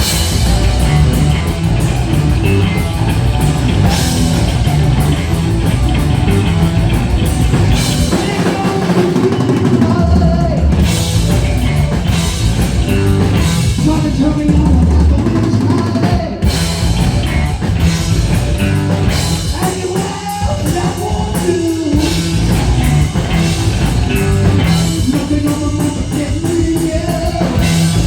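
Heavy metal band playing live at full volume: distorted electric guitars, bass and a pounding drum kit.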